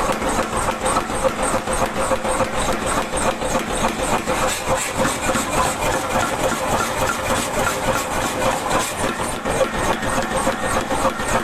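Power hammer running and striking a Damascus steel billet in a fast, steady rhythm of blows, with a constant machine hum underneath.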